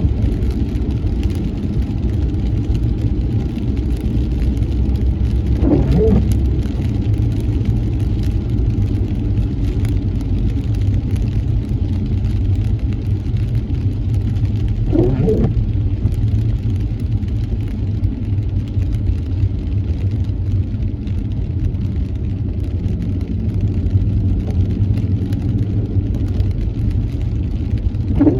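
Steady low road and engine rumble inside a car driving in the rain. A short gliding sweep comes three times, about nine seconds apart, like windshield wipers on an intermittent setting.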